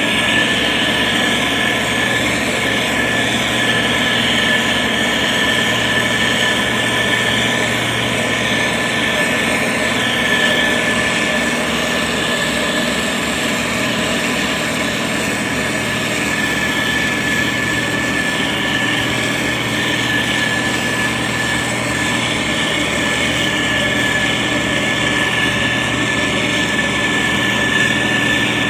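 A SANY STG190C-8S motor grader's diesel engine running steadily as it works, with a constant high-pitched whine over the engine note.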